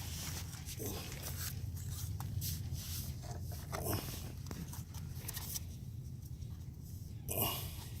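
Soft handling noises, rustles and light clicks, over a low steady hum, with one louder short rustle about seven seconds in.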